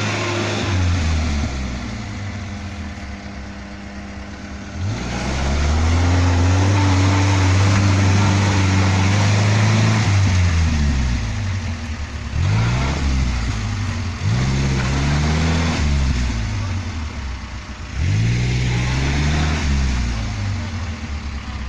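UAZ off-road vehicle's engine revving hard under load. It holds high revs for about five seconds, then runs through several shorter bursts that rise and fall.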